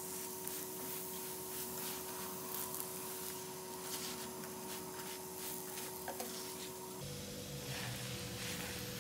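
Aloo paratha frying in ghee on a nonstick tawa: a soft sizzle with fine crackles, over a steady hum that changes abruptly about seven seconds in.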